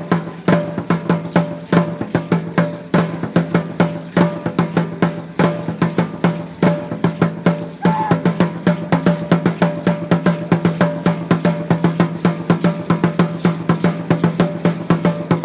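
Drumming for Aztec Chichimeca dance: a drum beaten in a fast, steady rhythm of several strokes a second, with a deep resonant ring under the beats.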